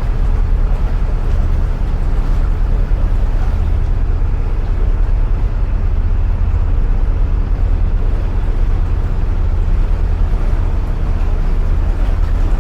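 Narrowboat engine running steadily at cruising speed inside a long brick canal tunnel, a constant low hum.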